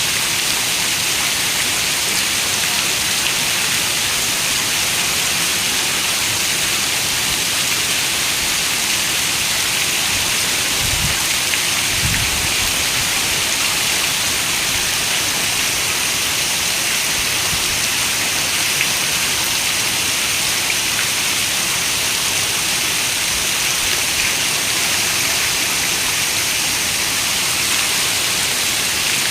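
Steady rain, an even hiss of falling drops, with two brief low thumps about eleven and twelve seconds in.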